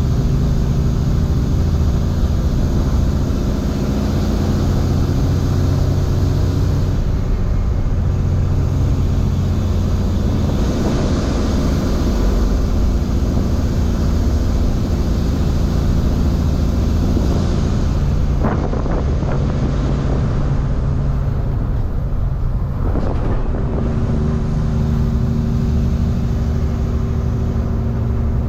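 Semi-truck's diesel engine running steadily while driving with a heavy load, with road noise; the engine note changes briefly twice in the last third.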